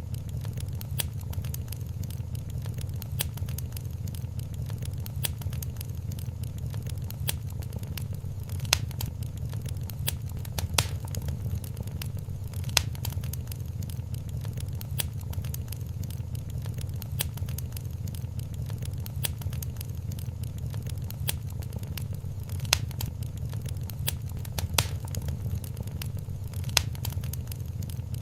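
Wood fire in a fireplace crackling, with sharp pops every second or two over a steady low rumble.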